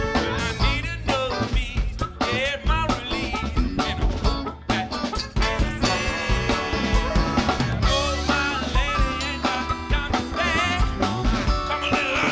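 A live funk band playing a song with singing, a drum kit keeping a steady beat under held and wavering melodic lines.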